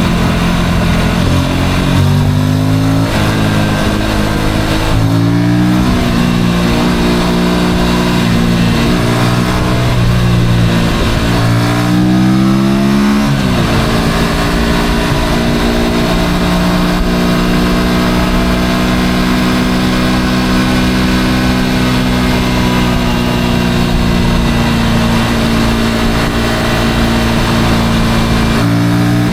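Motorcycle engine pulling away through the gears. Its pitch climbs and drops back at each of several gear changes in the first fourteen seconds, then holds steady while cruising, over a steady rush of road noise.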